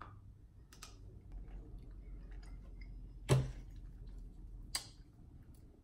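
Quiet chewing of a snack, with faint wet mouth clicks and two sharper clicks, about three seconds in and again near five seconds.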